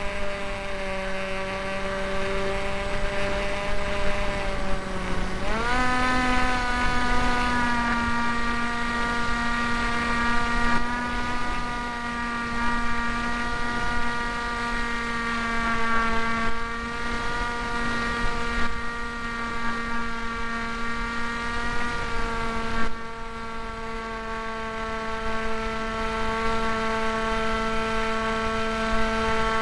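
Electric motor and propeller of a Hawk Sky RC foam plane running in flight, a steady whine that rises in pitch about five seconds in as the throttle is opened, then holds with small wavers.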